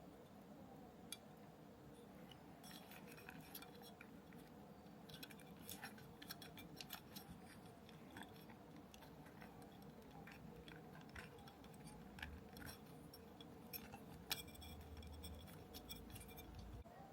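Faint, irregular clicks and light taps of small kit parts and tools being handled during model assembly, over a low steady room hum.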